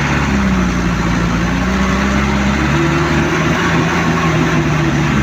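A motor vehicle's engine running steadily at low speed, with a low, even hum.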